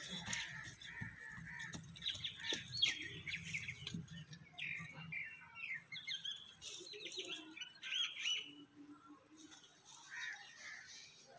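Small birds chirping in a quick string of short calls that rise and fall in pitch, busiest through the middle of the stretch, over a low hum that fades out about four seconds in.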